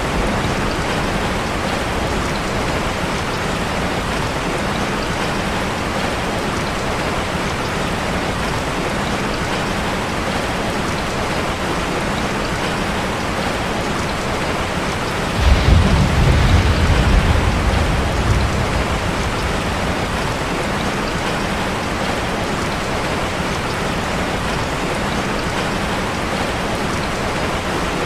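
Steady rain drumming on a metal roof. About halfway through, a low rumble of thunder swells and fades over a few seconds.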